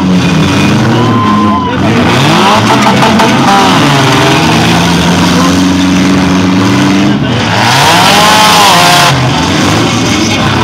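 Several compact demolition-derby cars' engines revving up and down over one another, pitch rising and falling as the drivers rev, with a louder rush of noise for about a second and a half, about eight seconds in.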